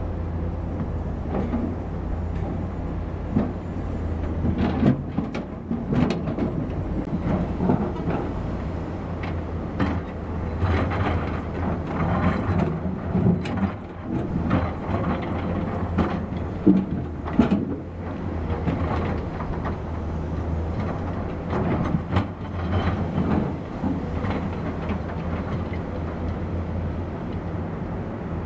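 Diesel engine of a piece of heavy construction machinery running steadily, with frequent irregular metallic clanks and knocks as the machine works.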